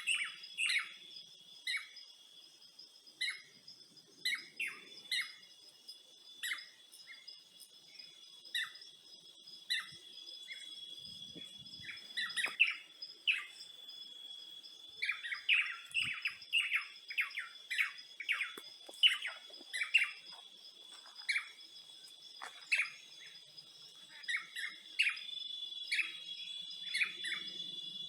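Forest ambience: birds giving many short chirps and calls, one after another, over a steady high insect trill.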